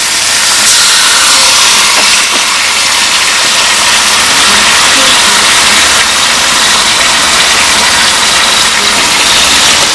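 Diced potatoes frying in oil in a pot, a steady loud sizzle, as tomato purée is poured over them.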